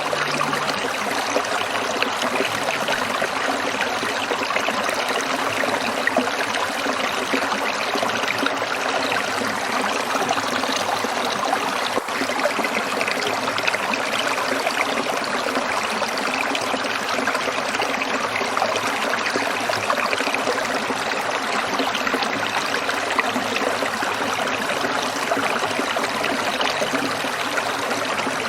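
Small stream trickling and babbling over stones in a steady, unbroken flow of water.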